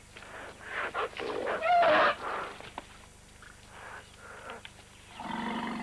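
Large wild animals calling: a loud, harsh call with a wavering pitch about two seconds in, then a lower, buzzing call near the end.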